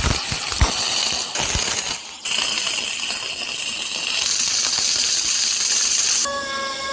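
Wire-feed welding arc crackling and hissing steadily in two runs, with a short break about two seconds in, as the guard is welded onto the log splitter frame. Near the end the crackle stops and a steady pitched hum of several tones takes over.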